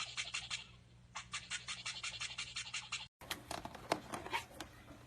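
Toothbrush scrubbing in quick rhythmic strokes, about six or seven a second, with a short break about a second in. It cuts off suddenly about three seconds in, and a few faint scattered clicks follow.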